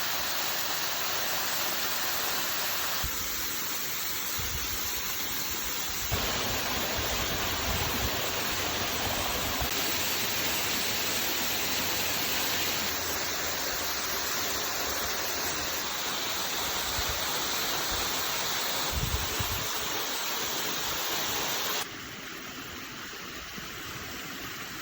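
Steady rushing water, a constant noisy hiss, that changes in tone abruptly several times and turns quieter about 22 seconds in.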